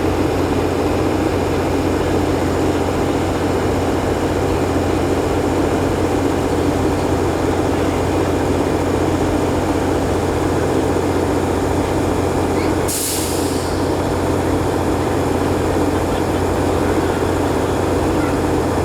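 Diesel locomotive idling with a steady low drone. About 13 seconds in there is one short hiss of released brake air.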